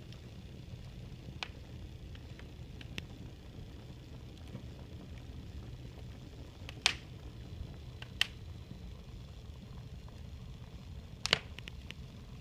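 Wood fire crackling: scattered sharp pops over a low steady rumble, with the loudest pops about seven and eleven seconds in.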